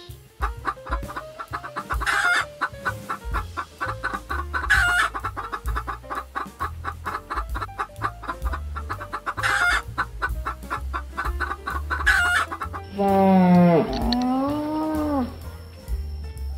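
Chickens clucking over light background music with a steady beat. Near the end comes a long, low animal call that rises and falls in pitch, like a moo.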